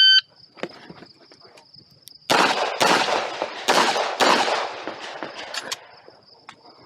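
A competition shot timer beeps once to start the stage. About two seconds later a handgun fires a rapid string of shots over roughly three and a half seconds, each crack trailing off in echo. Insects shrill steadily behind.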